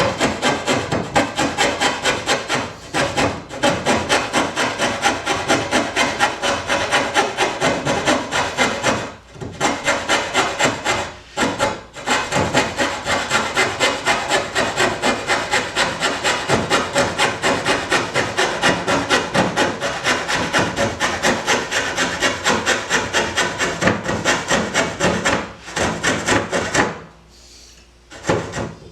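Hand saw cutting through wood in quick, steady back-and-forth strokes, a few each second, with short pauses now and then and a longer break near the end.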